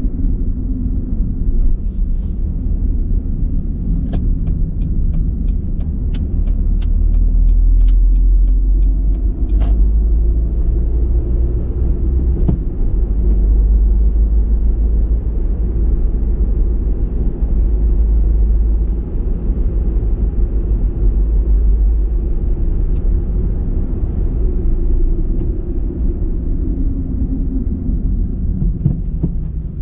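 A car driving, with a steady low rumble of engine and road noise. Between about 4 and 10 seconds in there is a run of even ticks, about two a second.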